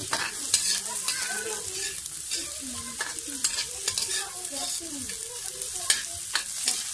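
Diced tomato frying in pork fat in a metal wok, sizzling steadily while a slotted metal spatula stirs and scrapes it. The spatula clicks against the pan now and then, most sharply about half a second in and again near the end.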